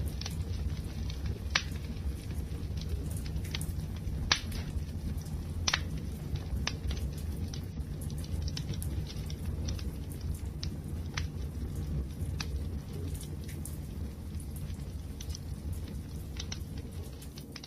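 Wood fire crackling: irregular sharp pops and snaps over a steady low rumble of burning. The loudest pops come about one and a half, four and six seconds in.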